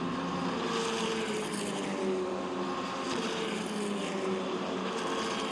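Race car engines running on the track, a steady drone whose pitch sinks slowly.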